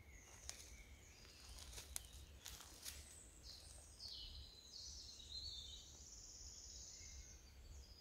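Faint songbird singing: a series of high-pitched phrases, with a fast even trill in the second half, over a low rumble. A few soft clicks in the first three seconds.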